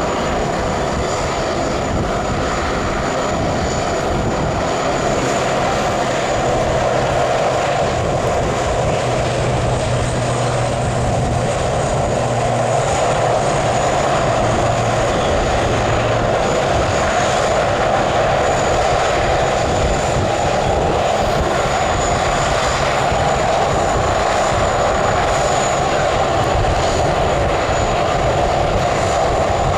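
Aircraft engines running steadily: a continuous broad rushing noise with a thin high whine above it, growing slightly louder partway through.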